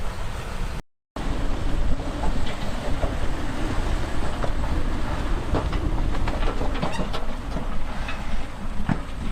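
Crawler bulldozer's diesel engine running under load with its steel tracks clanking and clicking. The sound drops out for a moment about a second in.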